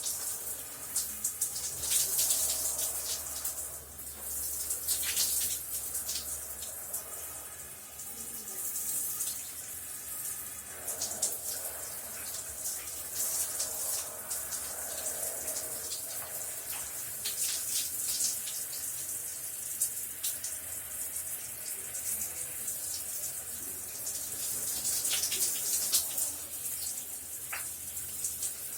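Shower running: a steady hiss of water spraying and splashing, its level shifting as the stream hits different surfaces.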